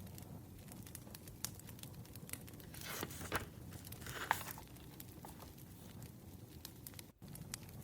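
Paper rustling in two short swells, about three seconds in and again a second later, over the faint scattered pops of a crackling wood fire.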